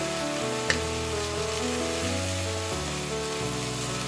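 Aninikad shells sizzling as they sauté in hot oil in a stainless-steel pot, under background music. One short tap comes just under a second in.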